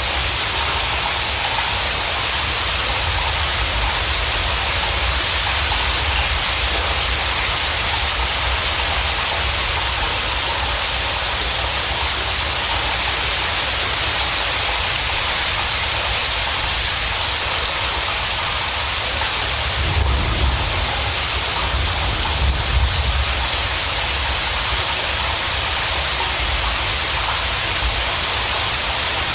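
Steady rain falling: a constant hiss with a low rumble underneath, swelling briefly about two-thirds of the way through.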